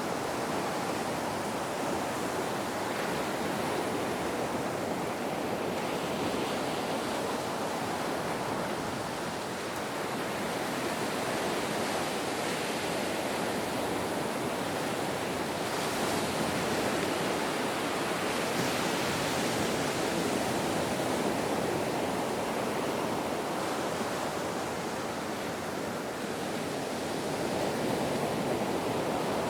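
Ocean waves and surf: a continuous wash of breaking water that swells and eases gently.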